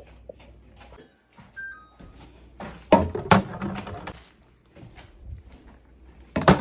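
Knocks and clinks of fridge shelves, drawers and containers being handled during cleaning, with two sharp knocks about three seconds in and another near the end, and a brief high squeak just before.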